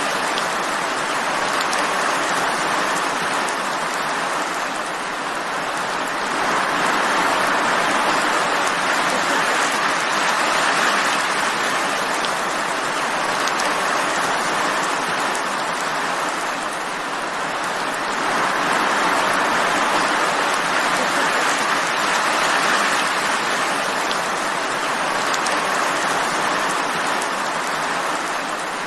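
Steady rain: a dense hiss of many falling drops that slowly swells and eases every several seconds.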